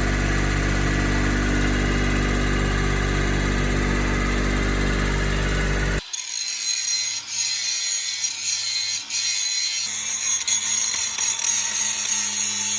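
An engine running steadily at a constant pitch for about six seconds, then an abrupt cut to a quieter, high-pitched mechanical whine over a low hum.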